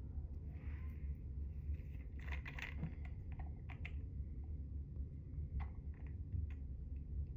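Light clicks and taps from small objects being handled: a quick cluster a little over two seconds in, then single ones scattered after, over a low steady hum.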